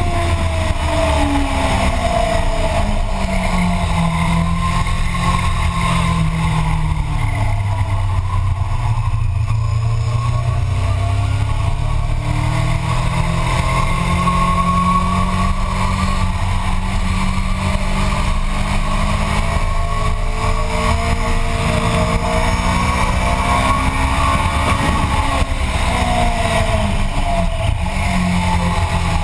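Motorcycle engine running hard at track speed, its pitch climbing under acceleration and dropping away several times, over a steady low rumble of wind noise.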